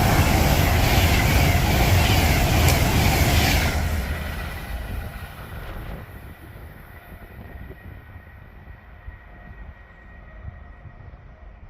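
A train passing through the station at speed, loud from the first moment and dying away after about four seconds as it leaves.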